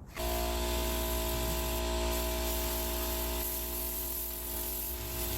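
Air tool blowing out a car interior: a steady rush of air over an even motor hum, starting abruptly just after the beginning.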